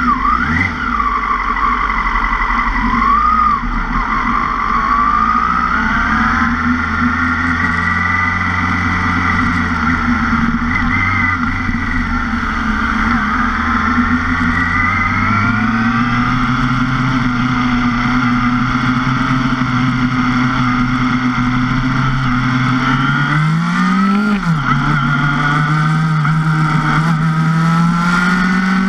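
2005 Yamaha R6's inline-four engine running at low revs as the bike rolls along, the revs lifting a little past halfway. About five seconds before the end the revs rise quickly and drop back, then climb steadily as the bike pulls away.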